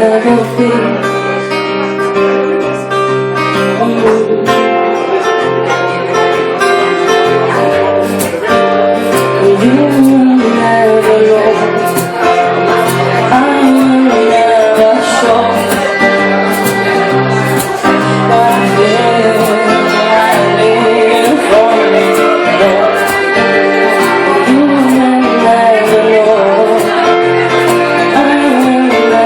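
Live acoustic band music: guitar strummed in a steady rhythm under a wavering melody from violin and singing.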